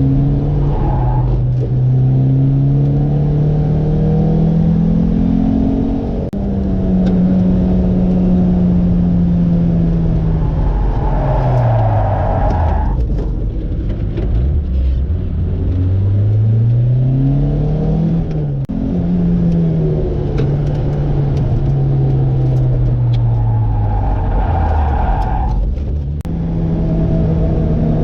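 Lotus sports car's engine heard from inside the car on a track lap. The engine note climbs under acceleration with a gear change about six seconds in, falls away under braking around the middle, climbs hard again, shifts up once more and eases off near the end.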